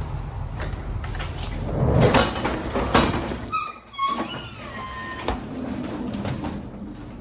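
Metal rattling and several sharp knocks over a steady low rumble, with a short high squeal that drops in pitch a little past halfway.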